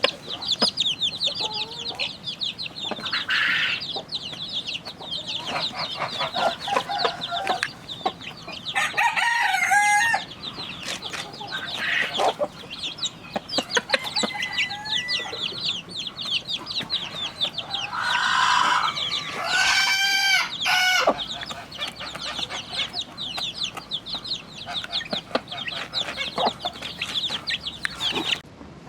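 A flock of chickens clucking and calling, with two longer drawn-out calls, one about nine seconds in and one near twenty seconds.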